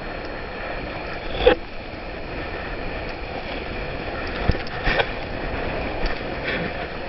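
Laser sailing dinghy underway in storm winds: wind rushing over the microphone and water washing along the hull. Sharp slaps of water or rigging come about a second and a half in and twice around five seconds in.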